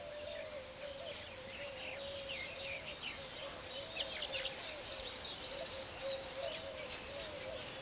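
Weaver birds chirping and chattering in many short, quick calls, busiest in the middle. A steady wavering hum runs underneath.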